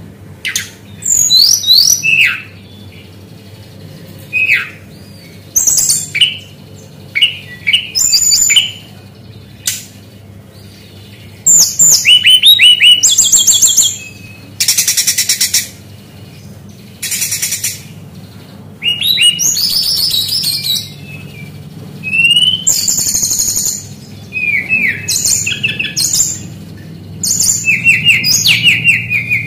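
Brown-chested jungle flycatcher (sikatan rimba dada coklat) singing a loud, varied song of short phrases, with quick downward-sweeping whistles, trills and harsh rasping bursts separated by short pauses. The song mixes in imitations of other birds' calls.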